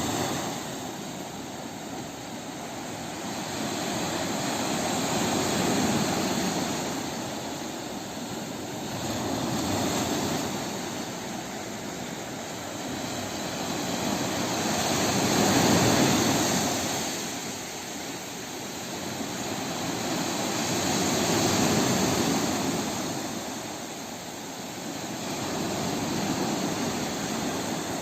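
Sea waves washing ashore, a steady noise that swells and falls back every four to six seconds.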